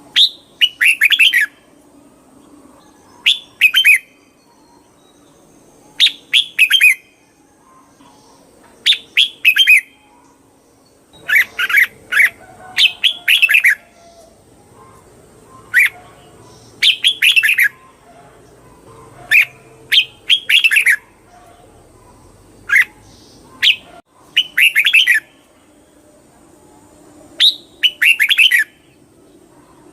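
Red-whiskered bulbul singing: short, bright chirping phrases about a second long, repeated every two to three seconds.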